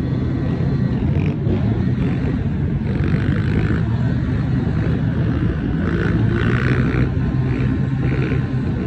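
Small motorcycle engines running steadily, with a few brief louder, higher patches in the middle and near the end.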